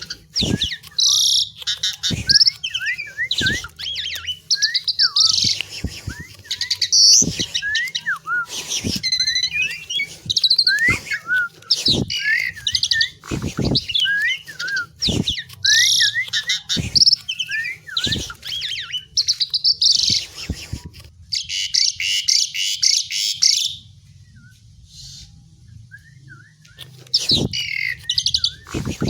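Asian pied myna singing a long, varied song of whistled notes that slide up and down, mixed with harsh buzzy chatter and sharp clicks, with a brief lull about three-quarters of the way through.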